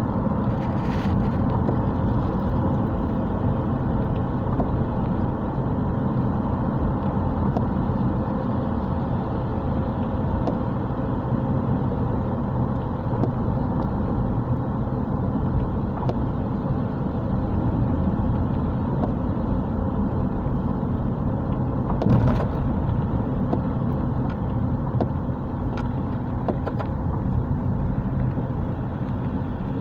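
Steady car driving noise heard from inside the cabin: engine hum and tyre rumble on a rain-wet road, with one short knock about two-thirds of the way through.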